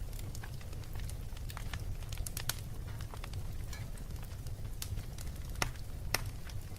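Wood fire crackling in a fireplace: sharp pops at irregular intervals, a few louder ones near the end, over a steady low rumble.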